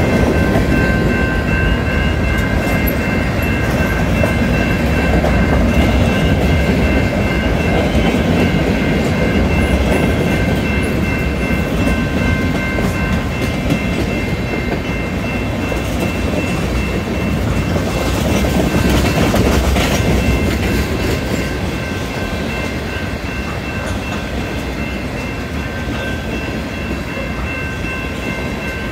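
Freight train cars (covered hoppers, then tank cars) rolling past at a level crossing, a continuous heavy rumble of wheels on rail that eases slightly toward the end. Several steady high tones ring faintly over it.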